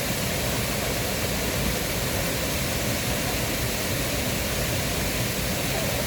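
Steady rushing of a mountain stream, water running over rocks without a break.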